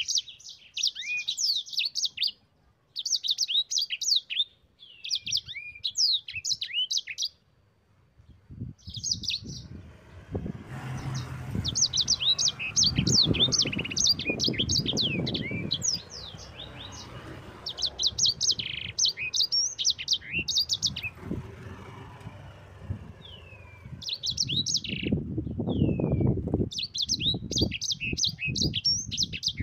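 A sanger songbird singing fast, rolling runs of high chirps and trills, in short bursts with gaps at first and almost without a break from about eleven seconds in. A low rumble of background noise comes in about eight seconds in.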